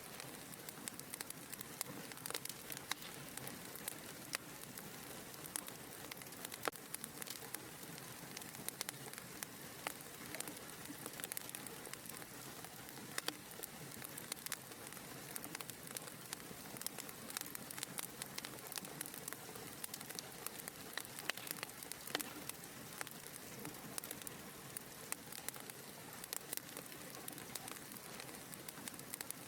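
Wood fire burning in a fireplace: a steady soft hiss of flames with frequent small, irregular crackles and pops.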